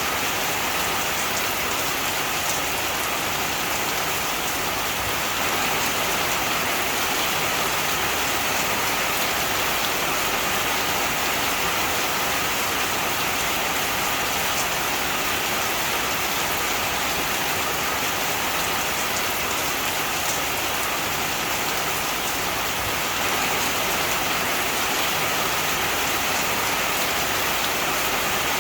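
Heavy rain falling steadily, an even hiss of many raindrops on a surface with no change in strength.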